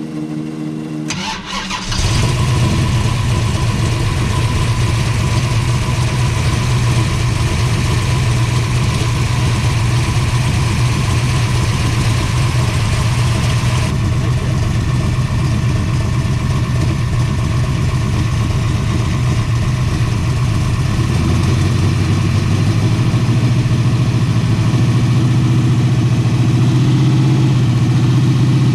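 Big-block Mopar 512 cubic-inch stroker V8 in a drag car being started: the starter cranks briefly and the engine catches about two seconds in, then runs loudly at a steady idle.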